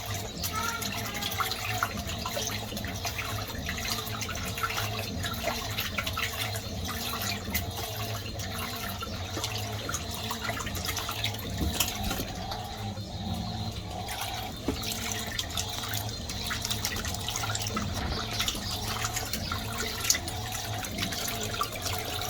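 Fisher & Paykel MW511 washing machine mid-cycle: water running and splashing inside the machine over a steady low hum, with many small clicks.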